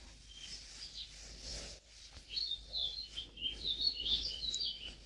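A small songbird singing quick, twittering high notes, a few at first and then a long rapid run from about two seconds in, faint over low room noise.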